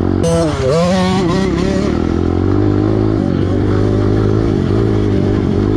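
Piranha 140 pit bike's four-stroke single-cylinder engine running under throttle, its pitch rising and falling in the first two seconds, then holding fairly steady. A hiss rides over the engine during that first stretch.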